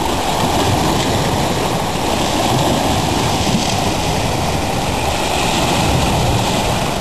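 Steady rush of large wind-driven lake waves breaking on the shore, with wind rumbling on the microphone.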